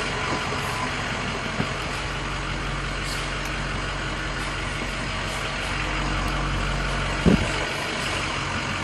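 2007 Ford F550 tow truck's engine idling steadily, its low drone swelling slightly around six to seven seconds in. A single short knock sounds just after seven seconds.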